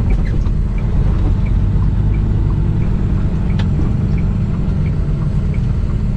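Semi-truck engine running at low speed, a steady low rumble heard from inside the cab, with faint small ticks at an even pace and one sharp click partway through.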